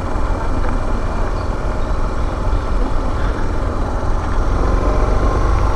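Suzuki DR650 single-cylinder motorcycle on the move, its engine under a steady rush of riding wind over the helmet microphone.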